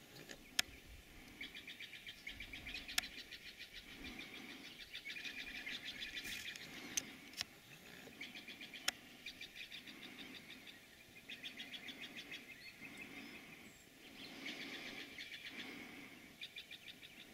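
Faint rapid bird trills, many quick high chirps strung together, repeating every second or two, with a few sharp clicks in the first half.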